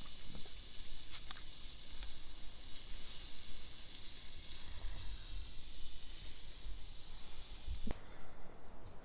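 Gas camp stove burner hissing steadily under a cooking pot or griddle, re-lit after its flame had gone out. The hiss cuts off suddenly about eight seconds in.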